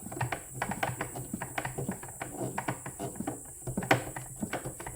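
A screw being tightened into the Breville Barista Express espresso machine during reassembly: a run of small, irregular clicks and ticks, with one louder click about four seconds in.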